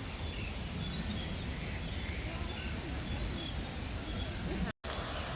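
Faint, scattered chirps of small birds over a steady background rumble of city noise, broken by a sudden brief dropout near the end.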